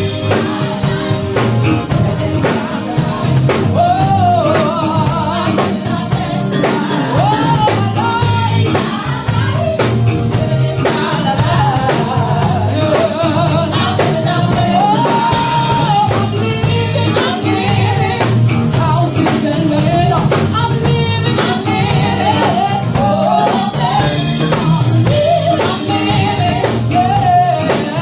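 A woman singing a gospel song live over a band with drums, her voice sliding and bending through the melody.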